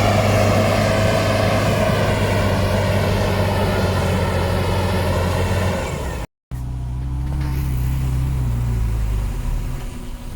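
Heavy diesel engines of earthmoving machinery running steadily. About six seconds in, a sudden cut switches to another diesel engine at a lower pitch, which changes speed a little.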